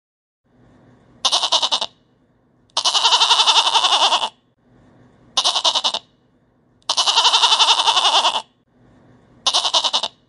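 Domestic goats bleating: five quavering bleats that alternate short and long, with quieter low sound between them.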